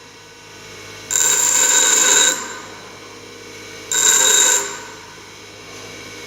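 Steel single point lathe tool pressed against a spinning bench grinder wheel in short passes, each giving a high ringing grind: one about a second in lasting just over a second, a shorter one about four seconds in, and a third starting at the end. The grinder's motor hum runs steadily underneath as the chip-removing angle is ground.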